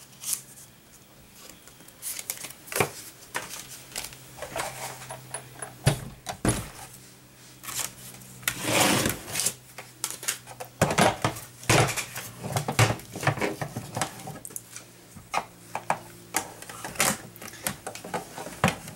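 Irregular clicks, taps and knocks of plastic plates and an embossing folder being handled and run through a hand-cranked Big Shot die-cutting and embossing machine, with a faint steady hum underneath.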